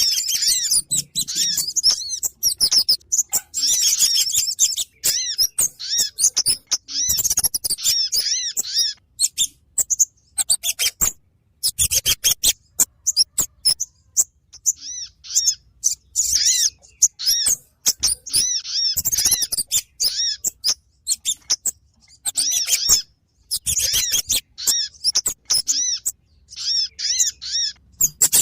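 Bird-lure recording of kemade and sogon calls: bursts of rapid, high-pitched chirps and sharp ticks, each burst a second or several long, broken by short gaps.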